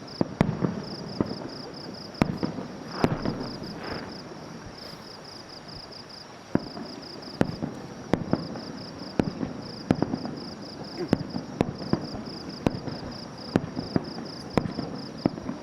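Fireworks display: aerial shells bursting in an irregular run of sharp bangs, some followed by a rumbling echo. An insect chirps steadily in short, rapid pulse trains behind them.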